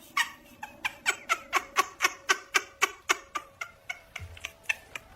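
A cat making quick, repeated short calls, about four a second.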